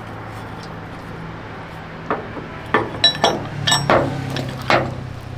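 Metal rigging hardware clinking and knocking, about seven sharp ringing clinks from about two seconds in, as the winch line is rigged. A steady engine hum runs underneath.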